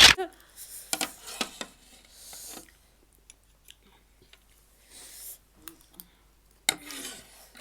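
Crisp pani puri shells being crunched and chewed, starting with a loud sharp crack and followed by scattered small clicks and crunches.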